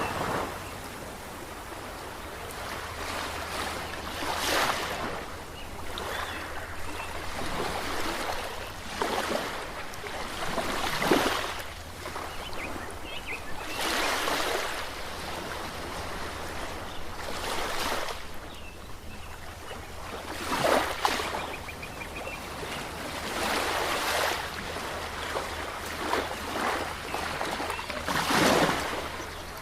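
Ocean waves washing ashore in a steady hiss, surging and breaking every few seconds, with the biggest breakers about a third of the way in and near the end.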